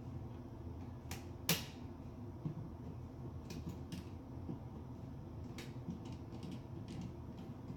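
Scattered clicks and small knocks of hand tools and hardware being handled at a wall switch box, the sharpest about one and a half seconds in, over a steady low hum.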